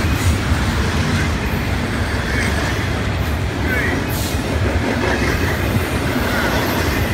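Double-stack intermodal freight cars rolling past, their steel wheels running on the rails with a steady low noise.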